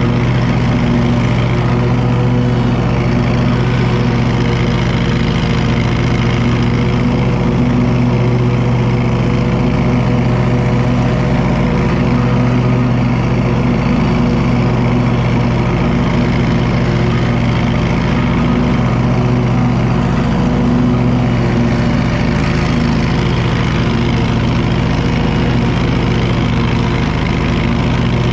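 Wright commercial mower's engine running at a steady, constant speed with an even hum.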